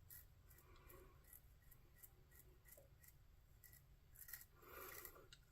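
Near silence with faint, irregular scratching strokes, like a safety razor cutting through lathered stubble, and a soft rustle just before the end.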